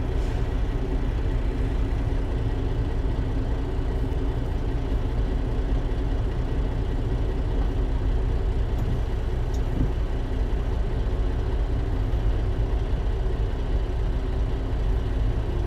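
Semi truck's diesel engine idling steadily, a constant low rumble with a faint steady hum over it.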